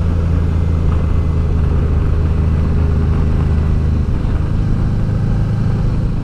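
Honda Deauville's V-twin engine running at a steady cruise, with wind and road noise.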